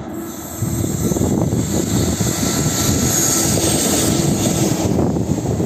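Electric locomotive hauling a train of ICF passenger coaches passing close beneath: a loud, steady rushing roar with a faint hum from the locomotive. About five seconds in the high hiss drops away as the locomotive goes past, leaving the low rumble of the coaches rolling over the track.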